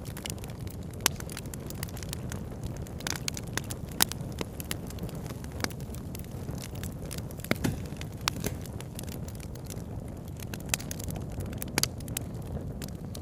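Campfire crackling: scattered sharp pops and snaps, a few much louder than the rest, over a steady low rushing noise.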